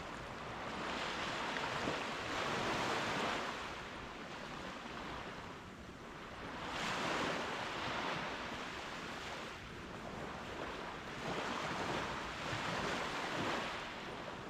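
Gentle ocean waves breaking and washing up a sandy beach, the surf swelling and falling back about every five seconds.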